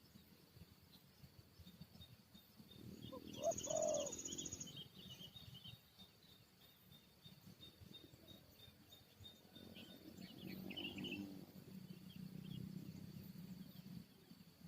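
Spotted doves calling low, a louder burst about three seconds in and another around ten seconds, over a steady high insect drone and scattered small-bird chirps.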